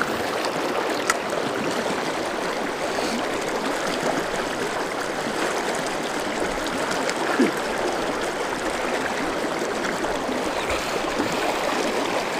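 A river stream running over rocks: a steady rush of flowing water, with one short louder sound about seven seconds in.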